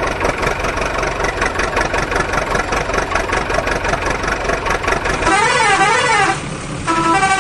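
Vehicle horn and siren sound effects: a fast rhythmic clatter with held tones, then a warbling siren-like tone about five seconds in, a brief hiss, and a horn playing a stepped little tune near the end.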